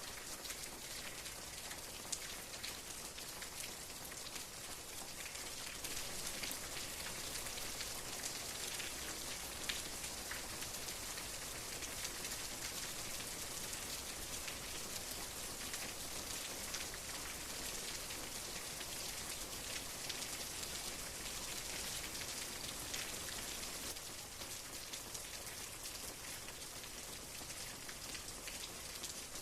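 Steady rainfall: an even hiss of rain with many small drops ticking on a surface, a little louder through the middle.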